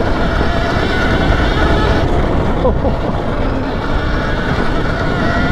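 Alta electric dirt bike being ridden under throttle: a thin, steady electric motor whine over heavy wind rumble on the microphone.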